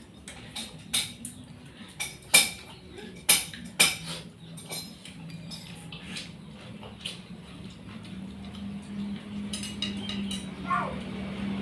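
Cutlery clinking against a plate during eating, with several sharp clinks in the first four seconds and a few more after. A low steady hum grows louder in the second half.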